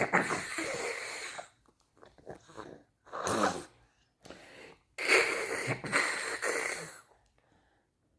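A baby making a funny breathy, wheezy sound in three bursts, the last and longest lasting about two seconds.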